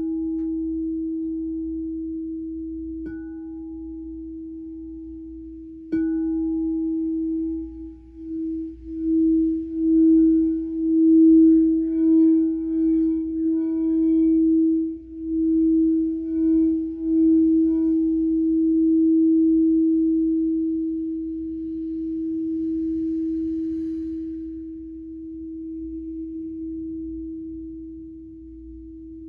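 Singing bowl ringing with one steady, pure tone. It is struck at the start and again about three and six seconds in. The tone then swells and wavers in loudness for about ten seconds before ringing on and slowly fading.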